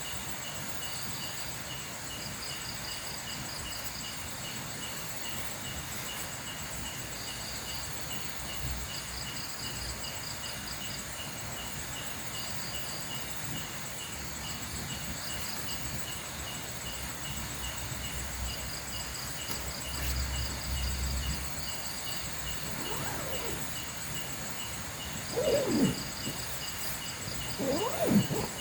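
Night insect chorus: crickets chirping in a steady, evenly repeating pulse, with trills that start and stop above them. Near the end, two short, louder sounds slide up and down in pitch.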